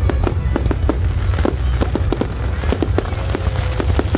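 Aerial fireworks going off in quick succession: many sharp bangs and crackles a second over a steady low rumble.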